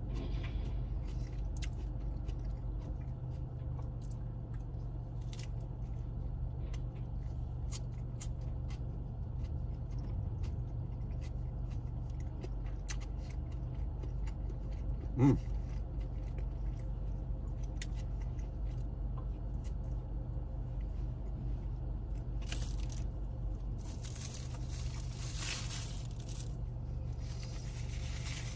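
Close-up chewing and mouth sounds of someone eating a biscuit sandwich, with small clicks and soft crunches over a steady low hum. Near the end a paper napkin rustles.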